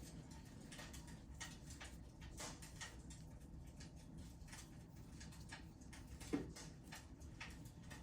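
Wood fire crackling in a fireplace: faint irregular snaps and ticks, with one sharper pop a little after six seconds in.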